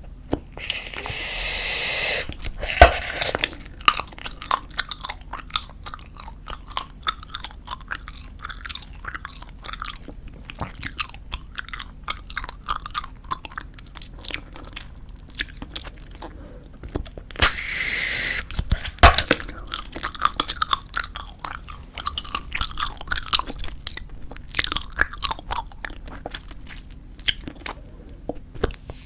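Close-miked wet chewing of soft tube bubblegum, with sticky smacks and clicks. Twice, a breathy hiss of air being blown into a gum bubble runs for about a second and a half and is followed by a sharp pop.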